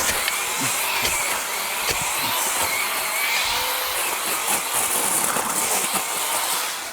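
A small power tool running with a steady high whine, like a remote control car, and cutting off at the end.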